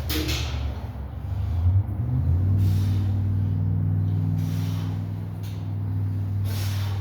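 A steady low hum that grows louder about two seconds in, with short sharp exhalations of breath during an exercise set about three times over it.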